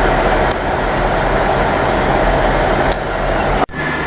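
Train standing at a station platform with its engines running, a steady low hum under broad noise. Near the end the sound cuts out for an instant, then comes back with a steady high-pitched tone added.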